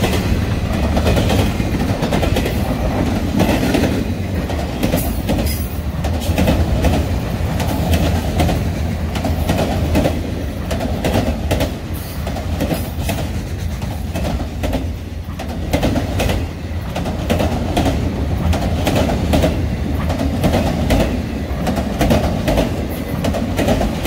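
Freight train cars, double-stack intermodal well cars and then autorack cars, rolling past steadily at close range. A continuous low rumble is broken by frequent irregular clicks and clacks of wheels over the rail joints.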